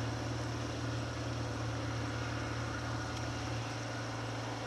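Steady low drone of a small workboat's motor, running under load as it pushes an iceberg.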